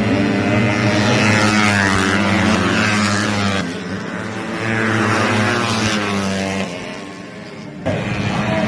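A pack of tuned four-stroke 130 cc underbone race motorcycles passing at full throttle, several engine notes sweeping up and down in pitch as they go by. The sound breaks off abruptly about three and a half seconds in and again near the end, with a second group passing in between.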